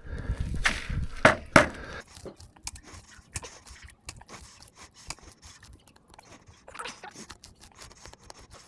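Hand tool digging into soil: a couple of sharp strikes in the first two seconds, then faint, scattered crunching and scraping of earth.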